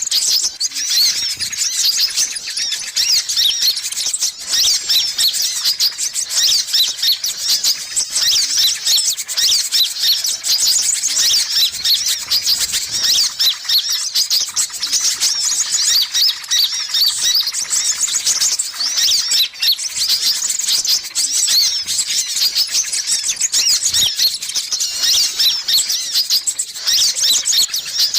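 Sunbirds chirping and twittering rapidly and continuously in high, dense calls: a lure recording of Indonesian kolibri sunbirds played to attract wild birds.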